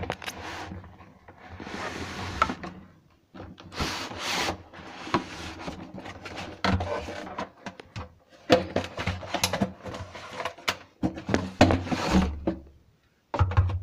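Cardboard packaging being handled and rummaged through: scraping, rubbing and rustling with a run of small knocks as items are moved and the box is shifted.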